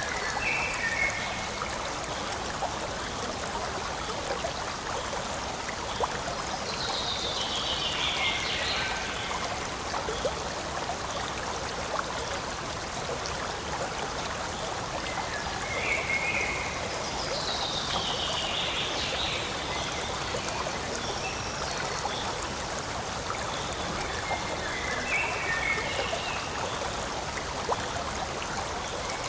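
Forest stream flowing steadily over stones. A high call slides downward twice, and short higher calls come in now and then above the water.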